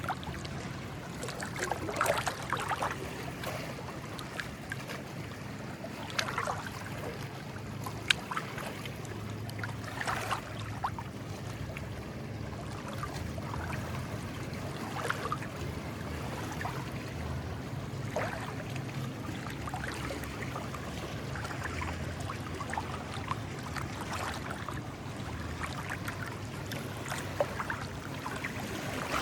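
Small sea waves lapping and splashing at the shore every few seconds, over a steady low wind rumble.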